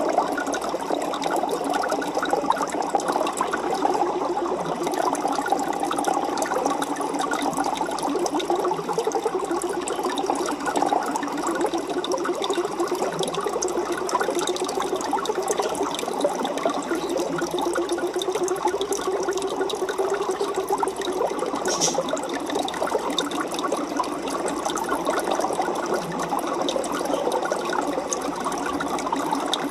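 Aquarium water bubbling and trickling steadily, a dense stream of small pops and splashes that keeps up without a break.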